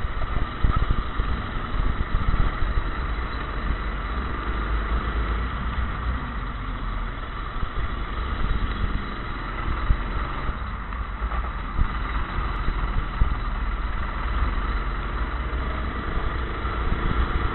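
Go-kart engine running continuously, mixed with a rough rushing noise.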